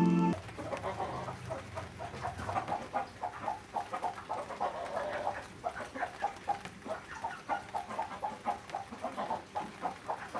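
Bird calls: rapid, short notes repeated about three or four times a second, after a snatch of music that ends at the very start.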